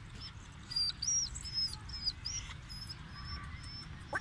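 A small bird chirping: a quick run of short, high chirps in the first half, then a few fainter ones, over a low steady background rumble.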